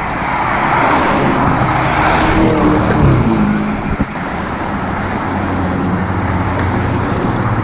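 A car engine running close by, with tyre and road noise. The engine pitch falls about three seconds in, then settles into a steady low running.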